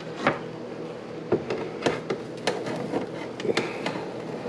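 An air fryer basket and its fish being handled, giving about half a dozen light knocks and clicks over a steady low hum.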